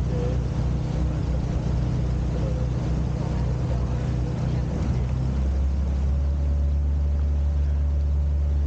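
Sightseeing boat's engine running steadily, heard on board. About five and a half seconds in, the engine note shifts lower and gets a little louder.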